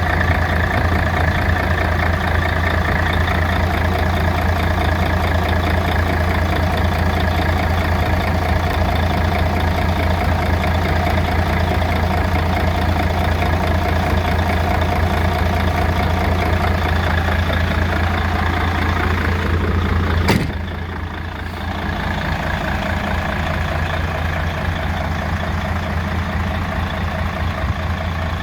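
Mercedes-Benz Actros 2640 truck's diesel engine idling steadily. About two-thirds of the way through there is one sharp click, after which the engine runs on a little quieter.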